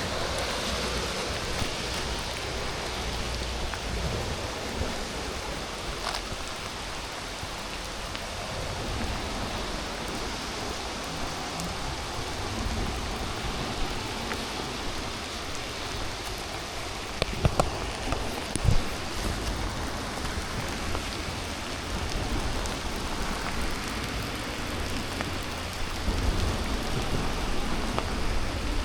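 Steady rain falling, with a few sharp, close taps a little past the middle.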